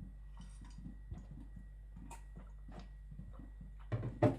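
Faint, irregular light clicks and taps of a knife and whetstone being handled, with two louder knocks in quick succession near the end.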